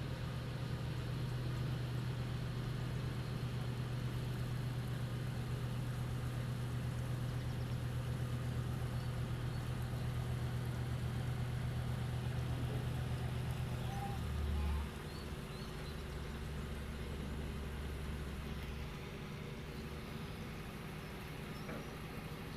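Tugboat's diesel engine droning steadily while towing a barge. About 14 s in, a brief louder swell comes, then the hum drops to a lower, quieter note.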